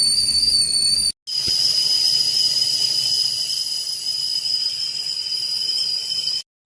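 HRHongRui copper-and-stainless whistling tea kettle whistling steadily at the boil, a high pure tone with a hiss of steam. The whistle cuts out abruptly about a second in and again near the end, and sits slightly higher in pitch in between.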